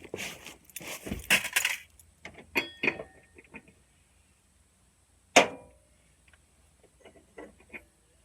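Small metal parts and hand tools clinking and scraping, with one sharp metallic clank about five seconds in.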